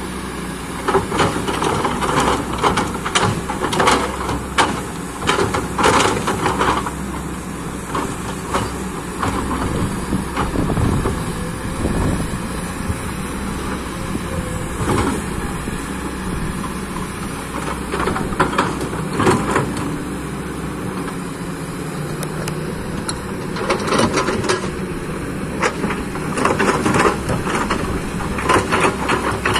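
Backhoe excavator's diesel engine running steadily under working load. Bouts of metallic clanking and scraping come from the machine at work, clustered in the first seven seconds, around 18 to 20 seconds, and again near the end.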